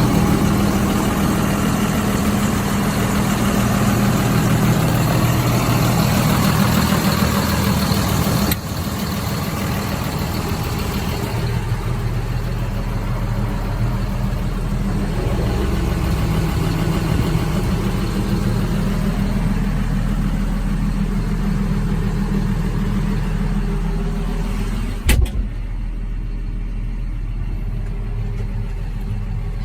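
Tractor diesel engine idling steadily, the sound shifting abruptly twice about a third of the way in, with one sharp click near the end.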